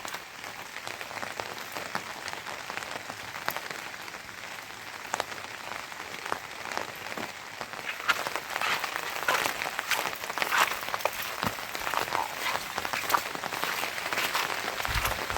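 Rain falling, with many small sharp drips and taps; the patter grows denser about eight seconds in.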